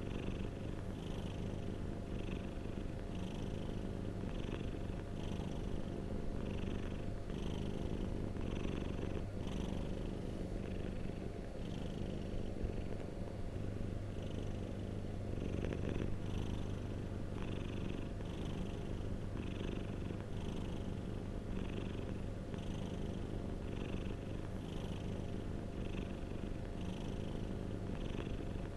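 Domestic cat purring steadily and close up, the purr swelling and easing with each breath about once a second.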